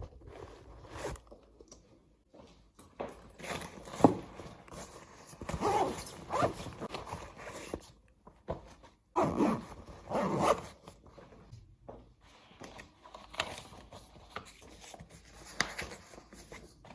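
Irregular handling noises: short scraping, rustling strokes at uneven intervals, a few of them louder, around four, six and ten seconds in.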